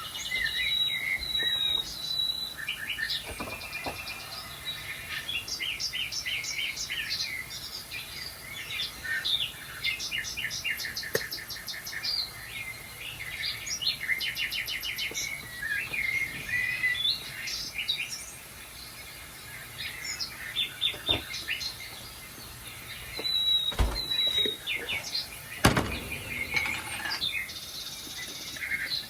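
Recorded birdsong playing from a TV: a busy mix of chirps, rapid trills and whistled notes from several birds, with two sharp clicks late on.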